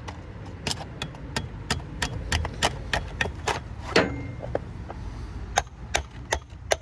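Quick, irregular metallic clinks and taps, about three a second, of tools working against a transformer's core and copper windings to pry them loose, over a steady low hum.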